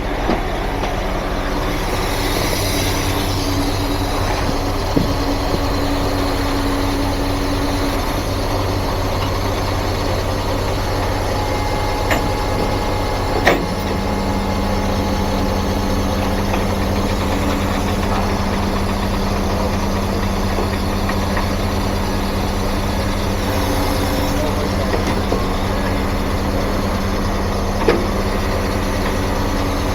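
Heavy truck engine idling steadily, with a few metallic clicks and clanks. About halfway through there is a sharp clack, and the engine note shifts slightly and holds steady after it.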